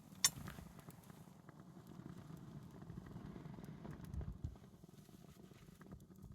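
Wood campfire burning: a sharp pop just after the start, then faint scattered crackles over a low steady rush of flame, with a dull thump about four seconds in.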